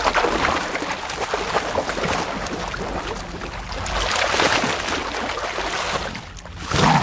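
River water splashing and sloshing irregularly, ending in a louder burst near the end.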